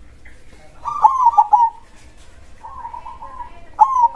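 Zebra dove (perkutut) cooing. A quick run of staccato coo notes comes about a second in, a longer, smoother coo follows near three seconds, and another loud phrase begins just before the end.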